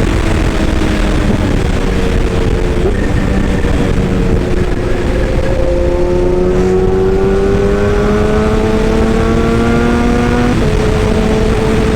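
Excavator's engine running steadily under load. Its pitch shifts a few times, rising slowly through the middle and dropping back near the end.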